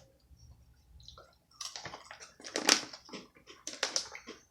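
Close-up eating sounds: irregular crisp crunching and mouth clicks that start about a second and a half in, after a brief quiet.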